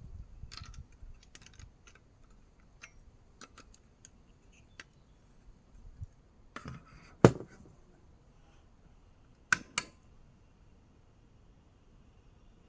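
Scattered small clicks and knocks of objects being handled, with one louder knock about seven seconds in and two sharp clicks close together near ten seconds.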